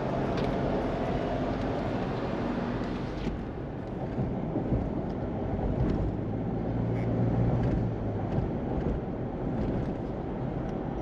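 Car driving along a road, heard from inside the cabin: steady engine and tyre rumble with a low hum, and a few faint ticks.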